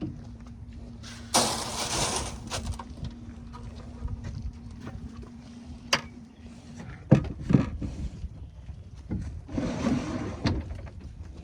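Weaned calves stirring in a barn pen: breathy noises, rustling and knocks, over a steady low hum that stops about two-thirds of the way through.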